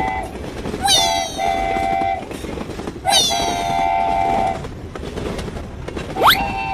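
Two long horn blasts, each held for over a second, over a steady rumble. A quick rising whistle-like glide follows near the end.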